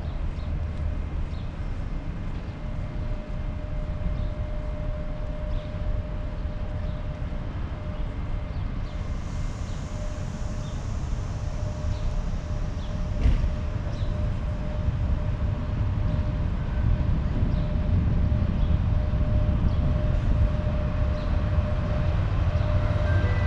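Steady low rumble of an approaching passenger train hauled by an EP1M electric locomotive, growing louder over the last third, with a faint steady tone running under it.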